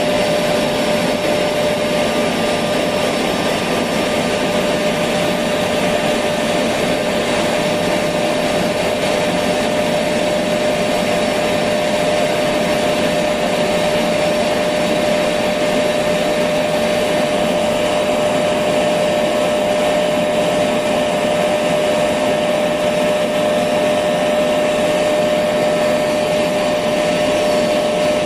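Electric vacuum cleaner motor running steadily: a constant whooshing rush of air with a steady whine.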